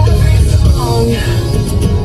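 Emo rock song playing loudly, a full band mix with guitar.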